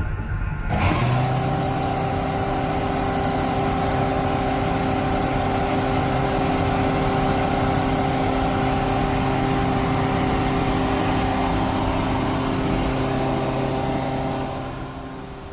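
Electric regional train running at steady speed: a constant rumble of wheels and rails with a steady motor whine of several held tones. It comes in abruptly about a second in and fades out near the end.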